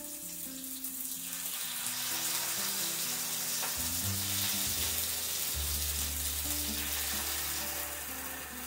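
Pieces of seasoned chicken breast sizzling in hot oil as they are laid one by one into a frying pan. The sizzle builds about a second in and eases near the end.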